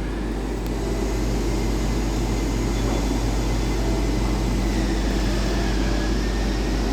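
Steady mechanical hum and noise of an electric train standing at a station platform, with an even low drone that does not change.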